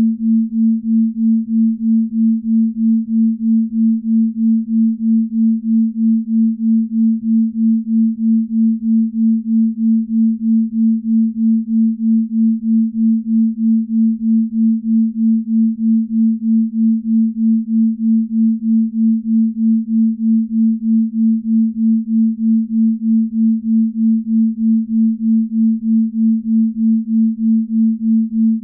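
Binaural-beat tone: a low, steady pure tone whose loudness pulses evenly about two and a half times a second, a slow beat of the kind used for deep-sleep relaxation.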